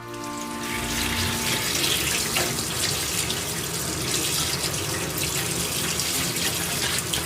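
Water running steadily from a kitchen tap, splashing into the sink.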